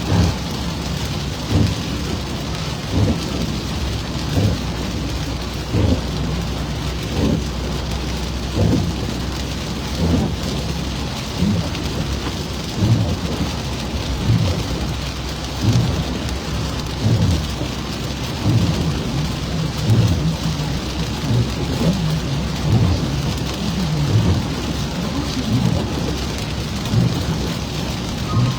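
Rain on a car driving along a road: a steady hiss of rain, with a low thump repeating about every second and a half.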